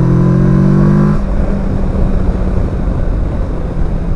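Kawasaki Versys 650's parallel-twin engine under way. Its note rises under acceleration, then drops away about a second in and settles to a steady cruise, over a constant rush of wind and road noise.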